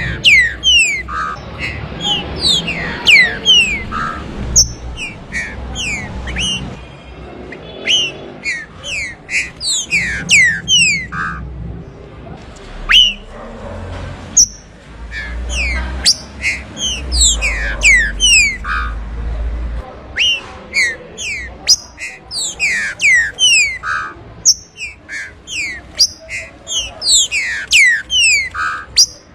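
Green-winged saltator (trinca-ferro) singing: loud phrases of quick, falling clear notes, one after another with short pauses between them. A low rumble runs underneath and is strongest about midway through.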